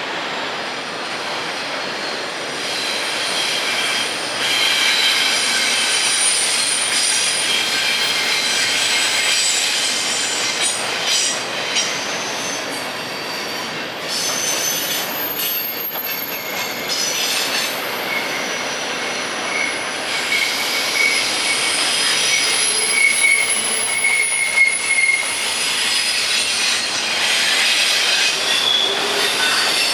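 Freight train cars rolling past with the continuous rumble of wheels on rail. Several high, steady wheel squeals rise and fade throughout, one strongest about two-thirds of the way in.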